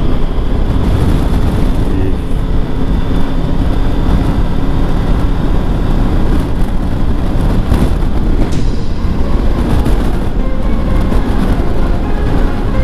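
Steady wind rush and road noise from a motorcycle on the move, with the Triumph Tiger 1200 GT Pro's three-cylinder engine running underneath.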